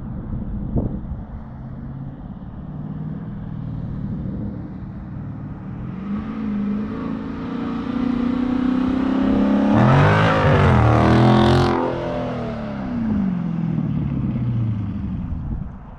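Dodge Charger Scat Pack's 6.4-litre V8 with a mid-muffler delete, accelerating past. The exhaust note builds for several seconds and is loudest about ten to twelve seconds in. Then its pitch drops as the car goes by and it fades.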